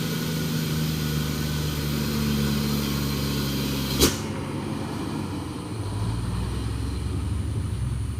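Heavy diesel truck engine running steadily under a load of cement on a steep climb. There is a sharp click about four seconds in, after which the engine sound turns lower.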